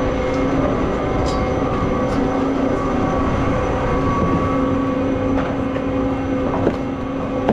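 A steady mechanical hum with one constant low drone and its overtones over a rumble, with a few light clicks near the end.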